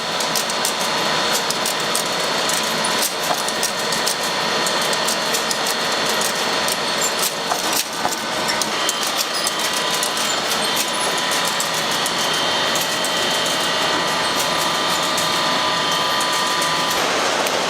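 Machinery running steadily, with a constant whine and rapid fine clicking.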